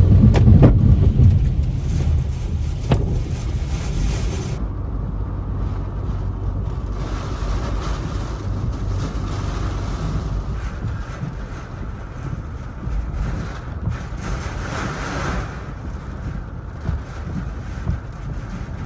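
Hurricane-force eyewall winds of a Category 4 hurricane buffeting the microphone as a deep, rough rumble. It is strongest in the first couple of seconds, then gusts swell and ease, with a stronger gust about halfway and another near three quarters of the way through.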